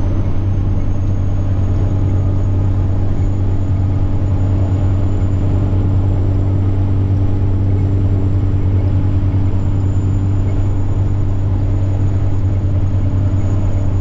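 Semi-truck diesel engine running steadily under way, a deep even drone with a thin high turbocharger whine above it that rises slightly over the first few seconds and then holds.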